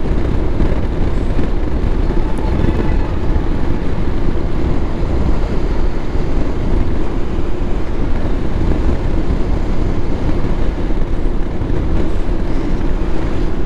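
Wind rushing over the microphone on a moving motorcycle, with the engine's steady hum underneath.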